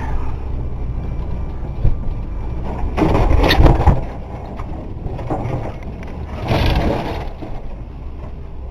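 A 1990 Ford F-150's 300 cubic-inch straight-six engine running low and steady as the truck drives through trees, with two louder scraping, crashing bursts as it pushes through brush, about three seconds in and again near seven seconds.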